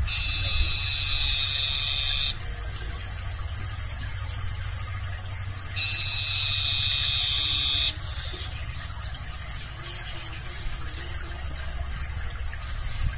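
Barn owl giving two long, rasping screeches, each about two seconds, the second about six seconds after the first.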